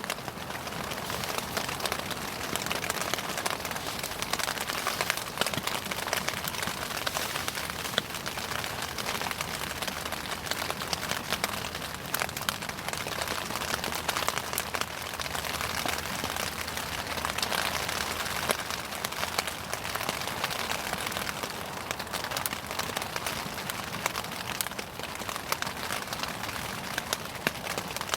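Wood bonfire burning: an even hiss with many small, sharp crackles and pops.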